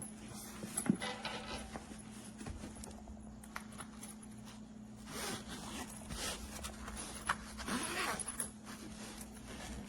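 Scattered light knocks, clicks and rustles of objects being handled, over a steady low hum.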